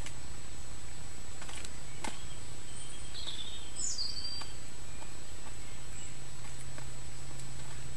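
Wild birds giving a few short calls and chirps, the clearest a little before the middle, over a steady low hum and faint scattered clicks.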